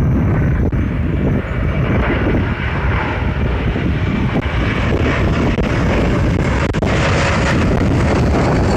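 Airplane engine noise: a loud, steady rumble with a hiss that grows stronger in the upper range from about seven seconds in.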